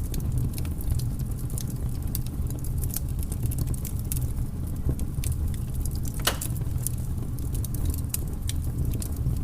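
Wood fire burning in a fireplace: a steady low rumble of flames with scattered sharp crackles and pops, one louder pop about six seconds in.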